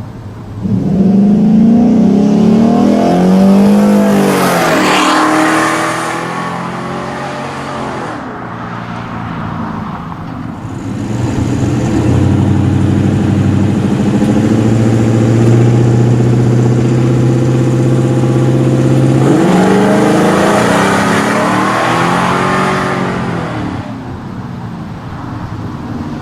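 Cammed 6.2L V8 GMC Sierra 1500 with long-tube headers, no catalytic converters and a true dual exhaust through a three-chamber Flo-Pro muffler. It passes twice: first accelerating hard with rising engine pitch and fading away, then running steadily as it approaches and sweeping past before fading again.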